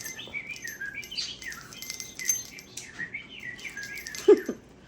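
Pet bird singing: a continuous run of quick chirps and whistled, warbling notes that slide up and down, with a louder, lower note about four seconds in.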